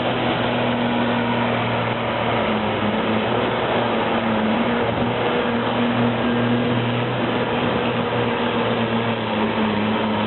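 A tractor engine running steadily at constant speed, a loud even hum under dense mechanical noise with no revving.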